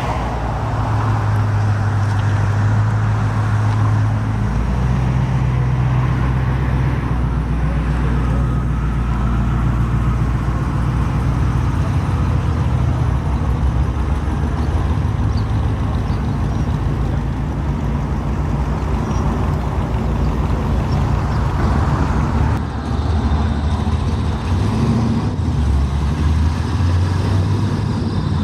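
Car engine running at low speed close by, its low hum shifting in pitch several times.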